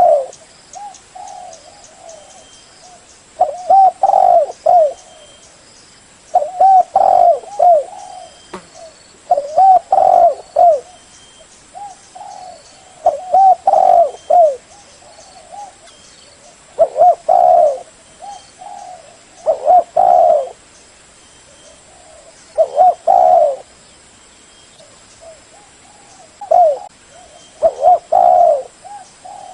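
Spotted dove cooing: a phrase of several low, loud coos repeats about every three seconds, with softer coos in the gaps between.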